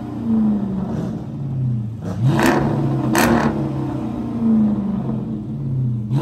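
Dodge Charger engine running with a steady rumble through its quad exhaust, blipped twice in quick succession about two and a half and three seconds in, each blip a short sharp rasp.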